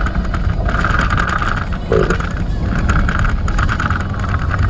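Steady road and engine rumble of a moving vehicle, with a hissing band that swells and fades every second or so.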